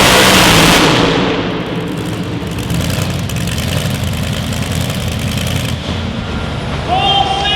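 A competition pulling vehicle's engine at full power, cutting back about a second in to a lower rumbling idle with scattered crackles. Music comes in near the end.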